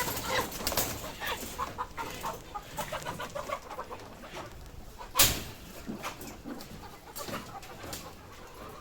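A flock of laying hens clucking, with many short, irregular calls. One loud knock about five seconds in.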